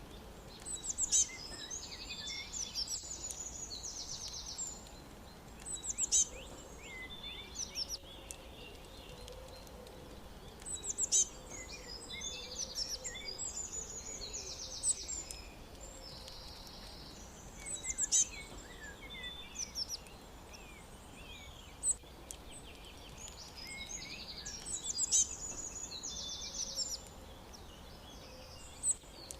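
Songbirds singing, with bursts of high, rapid trilled phrases that come back every five to seven seconds over a faint steady background hiss.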